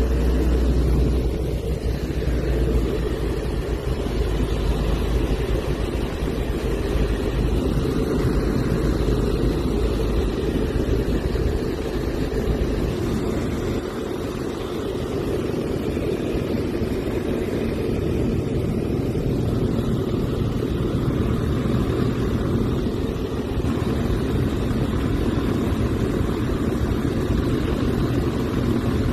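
Small propeller airplane's piston engine running steadily in flight, heard from inside the cockpit as a loud, even drone. The deepest part of the rumble drops away about halfway through.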